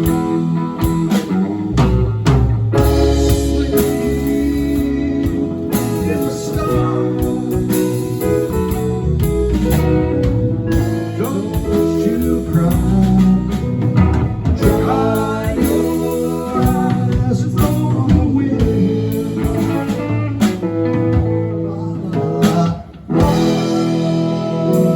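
Live rock band playing a guitar-led jam over bass and drum kit, in a stretch without sung words.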